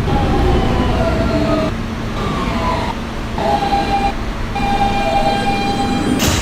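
Siemens traction propulsion of an R160B subway car whining in tones that step down in pitch as the train brakes to a stop, over the rumble of the car. A short hiss of air comes near the end.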